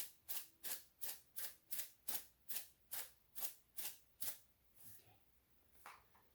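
Crushed red pepper flakes being shaken from a shaker onto food, a quick regular rattle of about three shakes a second that stops a little over halfway through.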